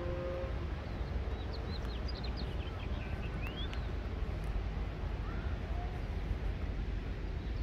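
Small birds chirping in quick, short rising notes, a flurry of them in the middle and a couple more later, over a steady low outdoor rumble.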